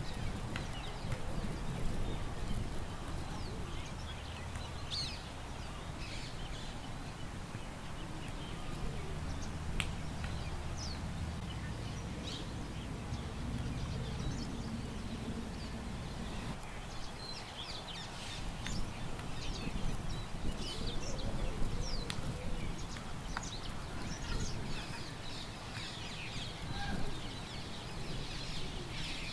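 Birds chirping in many short calls scattered throughout, over a low steady rumble of wind.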